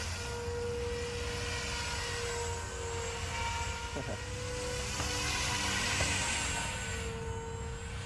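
Walkera V500D01 electric RC helicopter in flight at a low head speed: a steady whine from its brushless motor and rotors, the pitch wavering slightly, with the rotor swish swelling to its loudest about six seconds in and then easing off.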